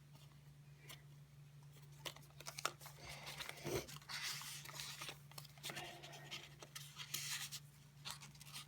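Paper rustling, with small taps and flicks, as journal pages, tags and tickets are handled and turned. The rustling comes in several short spells.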